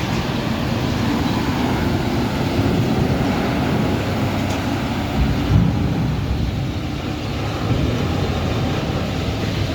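Steady low rumble of a large vehicle running, with a brief louder bump about five and a half seconds in.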